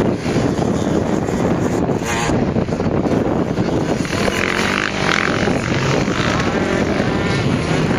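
Motocross bikes' engines running loud and continuous on the track.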